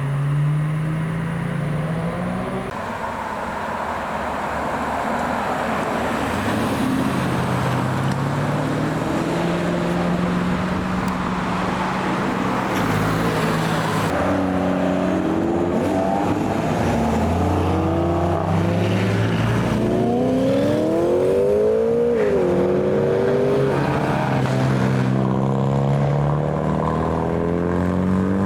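Sports-car engines running and revving as cars pull away. About twenty seconds in, one engine revs up, drops, then revs up again.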